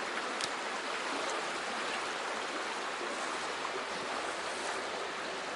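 Shallow, fast-flowing mountain stream rushing over stones in a steady, even wash.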